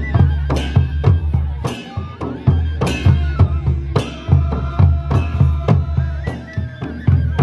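Traditional folk music: drums beating a steady rhythm under a melody instrument playing held notes.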